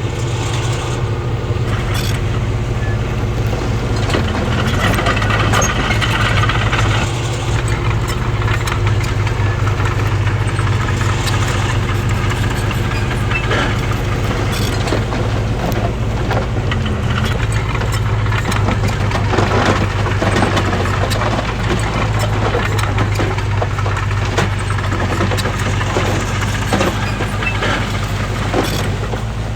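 Heavy diesel earthmoving machinery running steadily, with a constant low engine hum and scattered clanks and knocks throughout.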